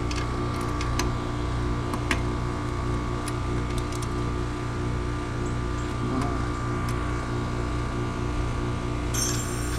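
Steady mechanical hum with light clicks and taps of tools being handled; a high hiss starts near the end.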